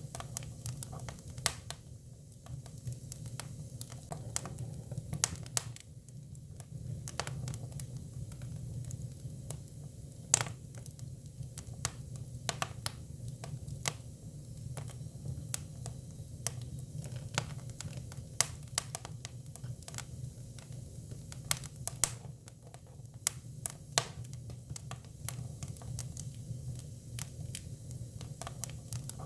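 Hinoki cypress firewood burning, with irregular sharp crackles and pops, a few of them louder, over a steady low hum.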